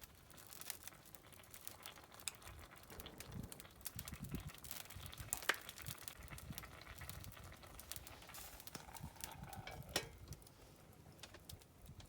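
Wood campfire crackling: irregular small snaps and pops, with a sharper pop about five and a half seconds in and another around ten seconds in.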